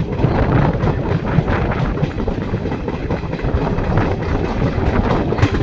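Train running on the rails: a steady heavy rumble with irregular rattling clatter of the wheels and carriages.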